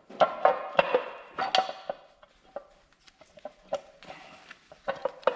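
Metal engine parts and bolts clinking and knocking as they are handled and fitted: a run of sharp taps, several with a short ring, in clusters with brief pauses.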